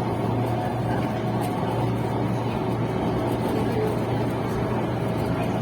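Passenger train running: a steady rumble with a constant low hum.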